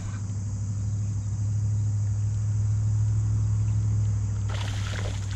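A low steady engine hum swells and then eases slightly, with insects buzzing in the background. Near the end there is a short burst of noise.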